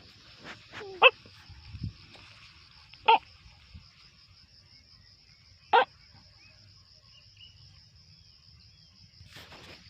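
A dog barking: three short, sharp barks, about two seconds apart.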